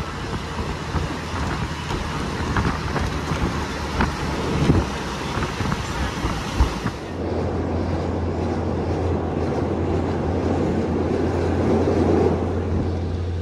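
Passenger train carriage noise: a steady rumble with a low hum and wind buffeting the microphone. About halfway through the sound turns duller, the low hum steadier.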